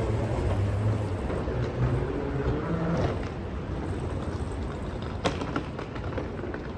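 Steady low rumble of a vehicle running, with a faint low hum and a single sharp click about five seconds in.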